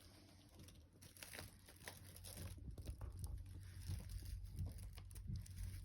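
A cat eating: faint, irregular crunching and chewing.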